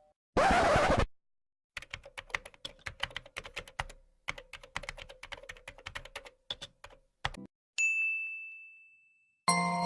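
A short burst of noise, then about six seconds of rapid, irregular typing clicks on keys, followed by a single bell ding that rings out and fades. Tinkling mallet-percussion music starts just before the end.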